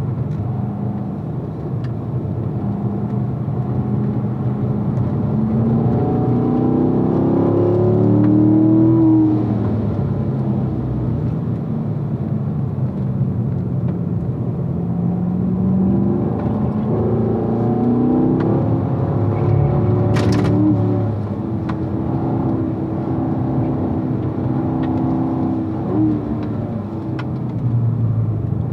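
2016 Corvette's V8 engine, heard from the cockpit during a track lap, revving up and falling back with throttle and gear changes; its note climbs clearly twice, about a quarter and about three fifths of the way through. A short sharp click comes about two-thirds of the way through.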